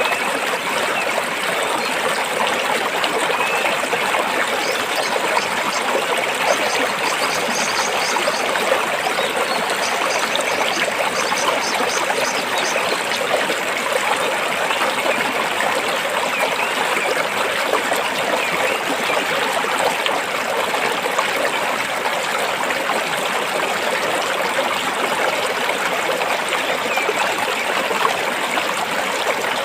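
Stream water flowing over and between rocks, a steady, even rush and trickle.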